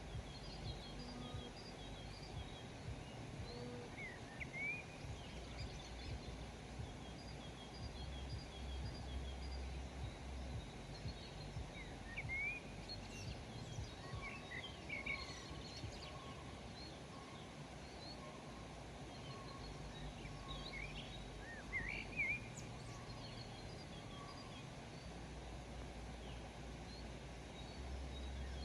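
Small birds chirping in short, scattered, quick rising notes, with a run of evenly repeated lower notes about halfway through, over a steady low background rumble.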